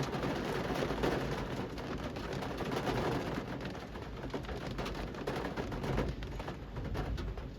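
Rain falling on a city street: a dense, crackling patter of close drops over a steady low rumble.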